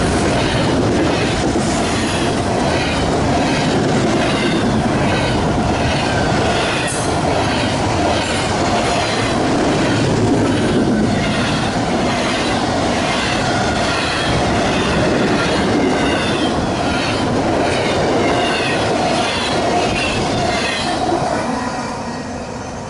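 Train cars rolling past close by, with steel wheels squealing on the rail and clicking over the rail joints. The sound fades slightly near the end.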